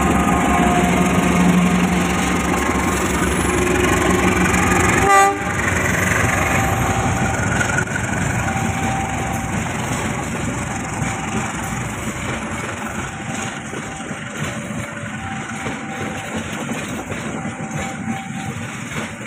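A train running past on the tracks: a loud, steady rumble with wheel-on-rail noise that slowly fades toward the end. A single sharp click about five seconds in.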